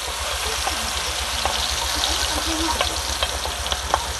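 Chopped chilli-and-shallot spice paste frying in hot oil in a wok: a steady sizzle, with small clicks and scrapes of a wooden spatula as the paste is scraped in and stirred.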